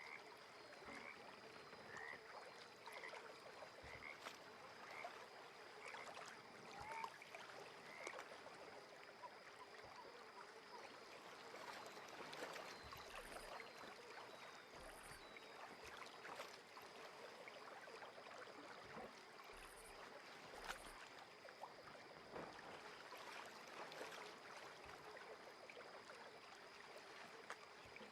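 Faint lakeside ambience of calling frogs. A short chirp repeats about once a second for the first eight seconds or so, over a soft crackling hiss and a thin steady high tone.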